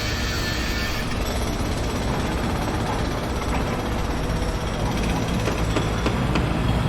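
Construction-site machinery running with a steady low rumble and dense mechanical noise, with a few sharp metallic knocks in the second half.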